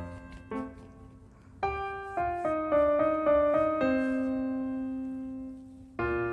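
Background piano music: a slow melody of single notes, with a long held chord near the middle and a new phrase near the end.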